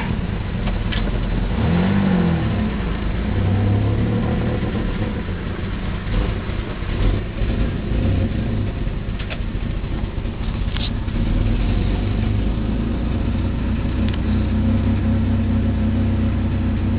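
Subaru XT6's 2.7-litre flat-six engine running steadily, which the owner says runs like crap.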